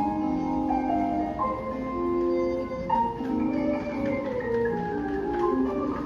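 Taipei Metro platform arrival melody: a chime tune of held, bell-like mallet tones stepping from note to note, playing over a low rumble.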